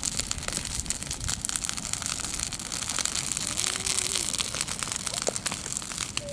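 Wood fire crackling and popping with irregular sharp snaps over a steady hiss.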